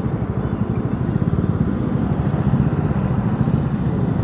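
Bajaj Dominar 400's single-cylinder engine running steadily while riding, a dense low pulsing rumble from the exhaust.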